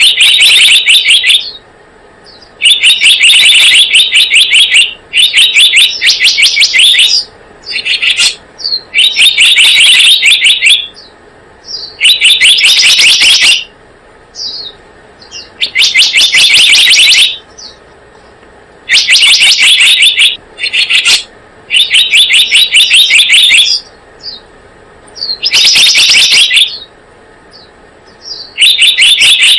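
Recorded lure call of the selendang biru bird: loud, rapid trills of repeated high notes, each about one to one and a half seconds long and coming every few seconds, with short single chips between them.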